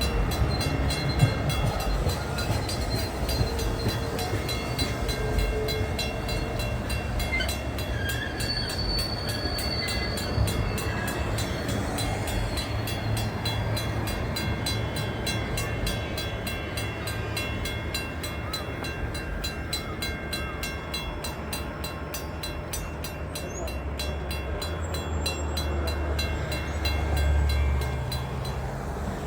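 The CPKC Holiday Train rolling past, a steady rumble and clatter of wheels on rail, with the low rumble swelling near the end.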